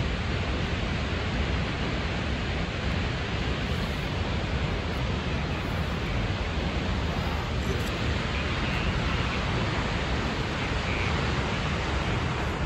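The steady roar of Snoqualmie Falls, a 268-foot waterfall: an even, unbroken rush of falling water.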